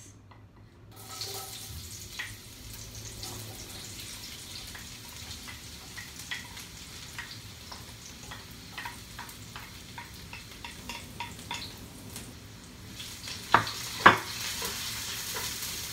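Chopped onion sizzling in hot olive oil in a wok, stirred with a wooden spatula that scrapes and taps the pan with many small clicks. Two loud, sharp knocks come near the end.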